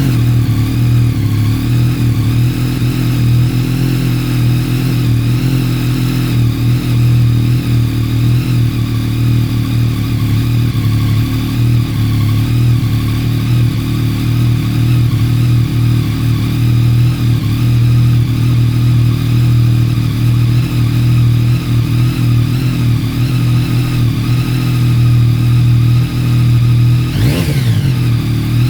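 Yamaha MT-09 SP's three-cylinder engine idling steadily on a cold start through an Arrow Thunder aftermarket exhaust. Near the end it is blipped once, the revs rising and falling.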